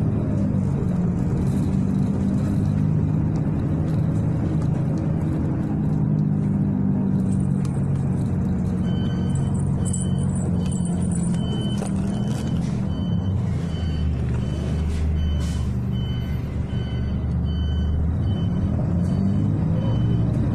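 City bus engine running, heard from inside the passenger cabin, with a deeper low rumble for a couple of seconds past the middle. About halfway through, a repeating electronic beep starts, roughly two beeps a second.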